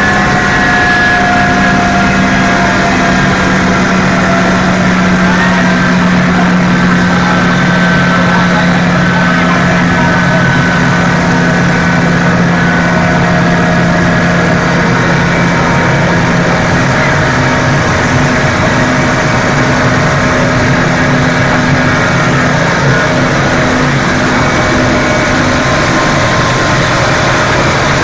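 Helicopter engine and rotor running steadily and loudly in flight, a constant drone with several steady tones, some sliding slowly lower in pitch over the first half.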